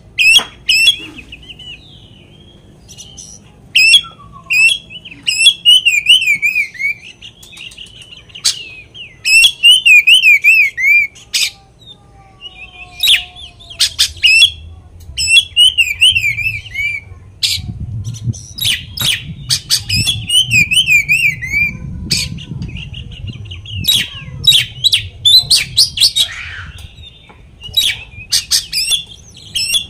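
Oriental magpie-robin (kacer) singing loudly and continuously: a varied song of rapid trilled phrases and sharp high whistles, repeated every second or two, the kind of full, mimicry-rich song used to provoke rival kacer into singing.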